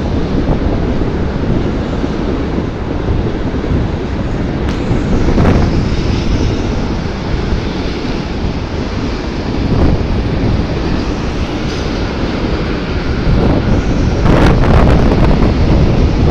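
Freight train wagons rolling past, a steady rumble of steel wheels on rails with a few sharp clanks, growing louder near the end. Wind buffets the microphone throughout.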